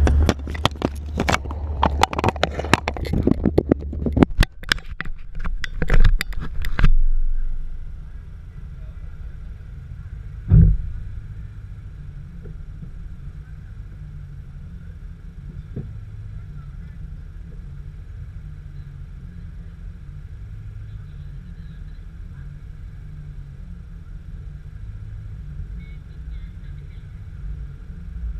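Knocks and scrapes of a camera being handled and mounted for about the first seven seconds, then a Chevrolet Camaro's engine idling steadily while the car stands still. A single thump about ten and a half seconds in.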